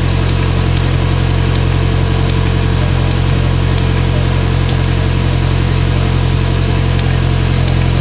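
2022 Polaris Slingshot's 2.0-litre four-cylinder engine idling steadily.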